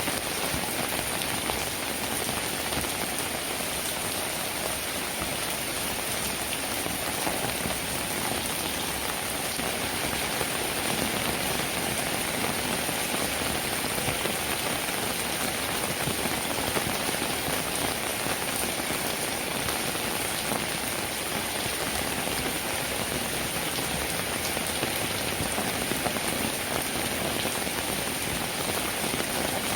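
Steady rainfall: an even hiss of raindrops, with a few slightly louder drops now and then.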